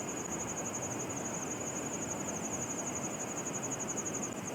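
Insects trilling: a steady, high, rapidly pulsing chirr, over the even rush of a mountain stream.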